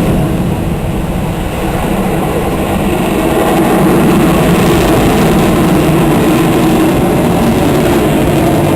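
Loud, steady low rumble of an aircraft's engines passing overhead; it dips slightly about a second and a half in, then swells and holds.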